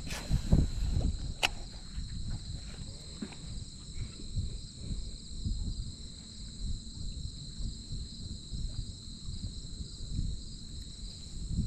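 Steady high-pitched drone of insects, crickets or similar, over a low uneven rumble, with one sharp click about a second and a half in.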